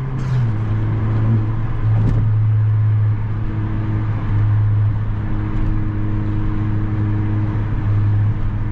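Honda Civic Si's turbocharged four-cylinder engine heard from inside the car, running at a steady cruise with a low drone. The pitch drops a little right at the start, and there is a brief click about two seconds in.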